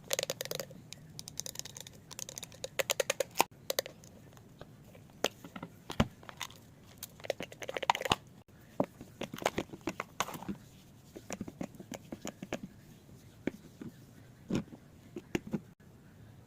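Small objects being handled: a dense run of sharp clicks and taps with brief crinkling rustles, thinning out in the second half.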